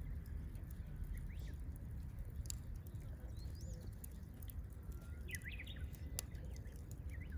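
Wood campfire crackling, with a few sharp pops, over a low steady rumble. Birds chirp a few times in the background.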